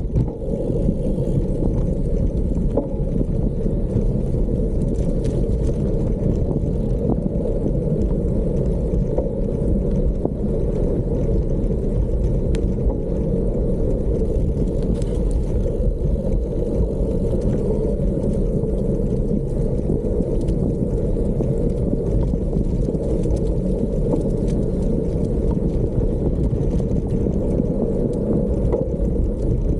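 Steady wind buffeting on the microphone with rumble from riding on a gravel road.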